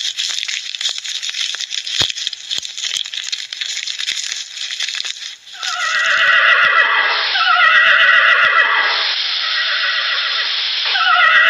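An animal calling: a series of about four loud, drawn-out calls, each falling in pitch, starting about six seconds in, after a steady hiss with scattered clicks.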